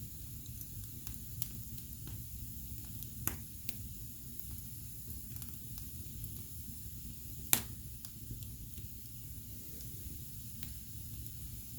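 Wood fire burning in a fireplace: a steady low rush with scattered small crackles, and sharp pops about three seconds in and, loudest, about seven and a half seconds in.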